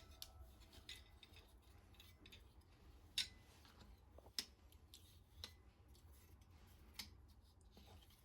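Near silence with a few faint, sharp clicks spaced a second or so apart, over a low steady hum.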